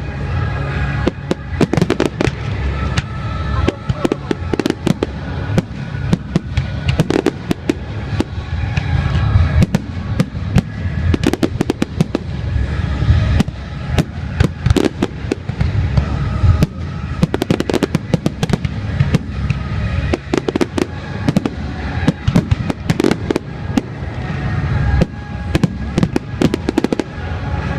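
A fireworks display going off in a rapid, near-continuous barrage of bangs and crackles with deep rumbling booms, and music playing underneath.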